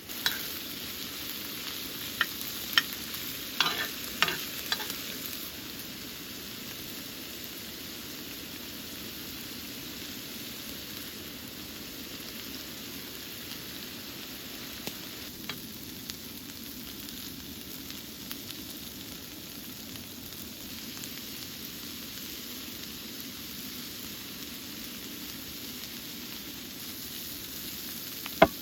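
Food frying in a pan, with a steady sizzle, and a few sharp knocks of a utensil against the pan in the first few seconds and once more near the end.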